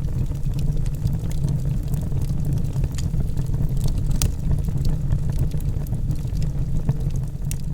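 Wood logs burning in a fireplace: a steady low roar of the fire with scattered sharp crackles and pops, the loudest about four seconds in.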